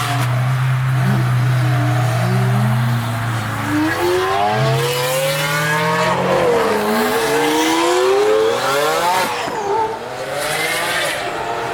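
Lamborghini Aventador V12s under acceleration: a steady engine drone for about three seconds, then the revs climb hard, dip at a gear change about six seconds in, climb again and fall off near the end. The pull carries the twin-turbo Aventador SVJ's turbo spool.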